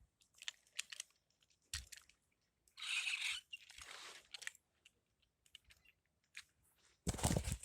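Irregular clicks, taps and rustling from plastic toy trains and track being handled, with a louder cluster of clicks near the end.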